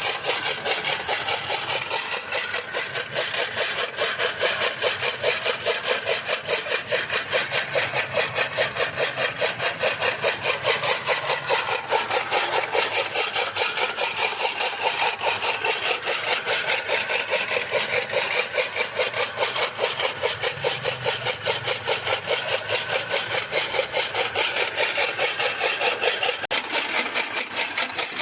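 Fodder chaff cutter chopping green fodder for cattle: a fast, even run of blade strokes, about four a second, going on without a break.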